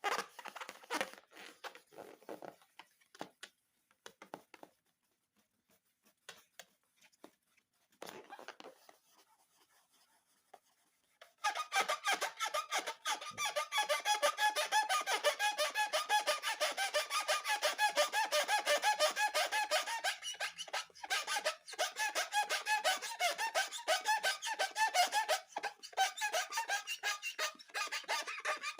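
Scattered faint crackles and clicks, then about 11 seconds in a dense run of rapid rubbery squeaks and crackles begins and keeps going: balloons and slime being squeezed and worked by hand.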